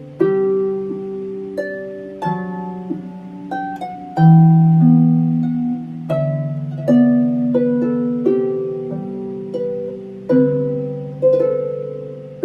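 Slow instrumental music on a plucked string instrument: single notes and chords plucked one after another, each left to ring out and fade.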